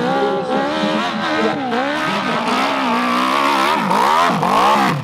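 Motocross motorcycle engine revving hard under load, its pitch rising and falling with the throttle, with several quick sharp throttle chops and re-openings near the end.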